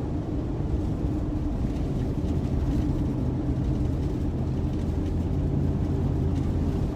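Steady road and engine noise of a car driving at highway speed, about 50 mph, heard from inside the cabin: an even low rumble with a faint constant hum.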